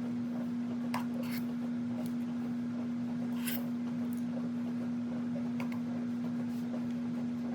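A steady low hum, with a few faint clicks and soft scrapes of a spoon scooping thick cream-cheese filling into dessert cups.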